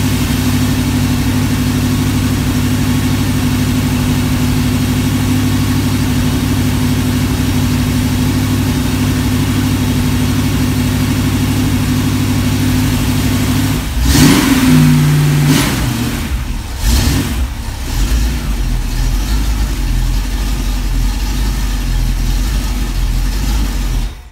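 Engine on a run stand running through new Flowmaster mufflers, being tested for sound. It idles steadily, is blipped in a few quick revs about two-thirds of the way in, settles back to a lower idle and is shut off just before the end.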